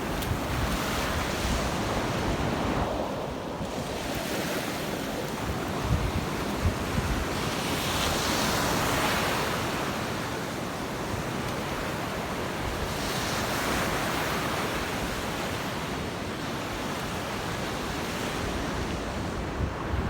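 Gulf surf breaking on the beach, the wash swelling and easing every five or six seconds, with wind buffeting the microphone underneath.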